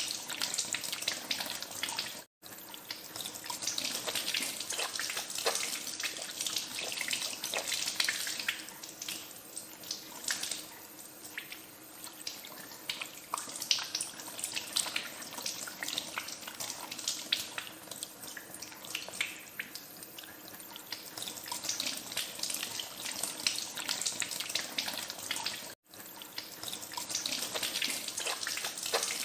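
Tap water running steadily into a sink while hands are washed under it, with constant small splashes and drips. The sound drops out for an instant twice, a couple of seconds in and near the end.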